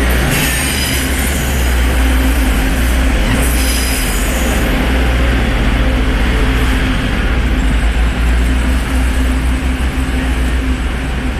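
DRC1000 diesel multiple unit pulling out, its diesel engine running with a steady low drone throughout. High-pitched wheel squeal rings over it for about the first five seconds, then fades away.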